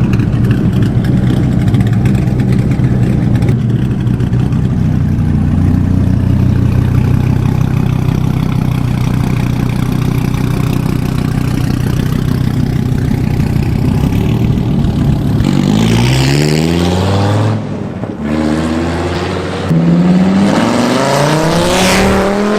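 Straight-piped Gen 3 Dodge Viper's 8.3-litre V10 idling loud and steady, then blipped in several quick revs that rise and fall over the last several seconds.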